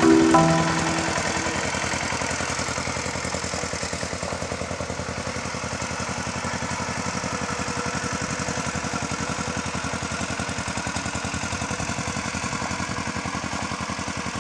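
Engine idling steadily with a fast, even pulse. A few mallet-percussion music notes die away in the first second.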